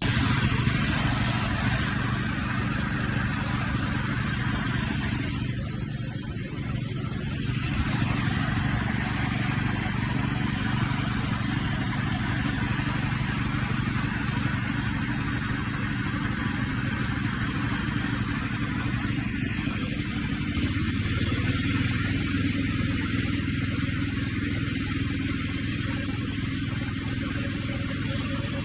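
1970 Sears 10XL garden tractor's small gasoline engine running steadily, with a brief dip in level about six seconds in and a slight change in engine pitch around twenty seconds in.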